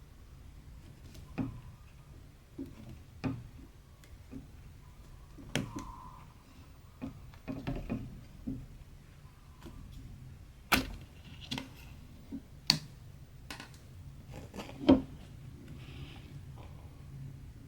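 Hand cross-stitching on 14-count stamped fabric: irregular light clicks and taps as the needle is worked through the cloth, a few sharper ones partway through, over a low steady hum.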